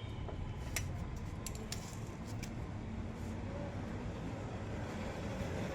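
A few light clicks and ticks of wire clips and leads being handled and connected, over a steady low background rumble.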